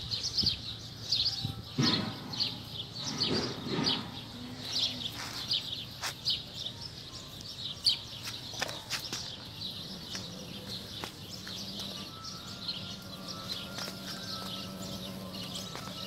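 Small birds chirping in the background, many short high chirps repeating throughout, with two duller low sounds about two and three and a half seconds in.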